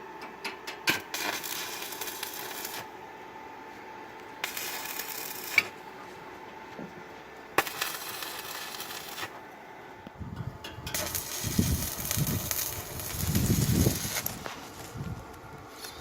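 Electric arc welding in short runs: about four spells of steady crackling and sizzling, each one to three seconds long, with pauses between them. Low rumbling sound sits under the last run.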